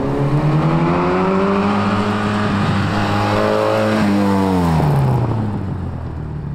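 MGB roadster's engine accelerating hard on a timed run, its pitch climbing as it revs through the gears, then dropping away sharply as the car passes close by about four to five seconds in and pulls away, fading.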